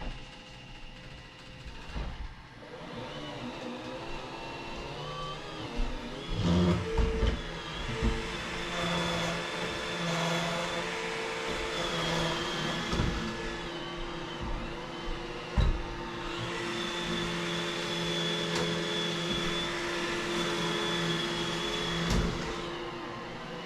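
Vacuum cleaner running with a steady hum that wavers a little in pitch, with several knocks and bumps, a cluster of them about a quarter of the way in.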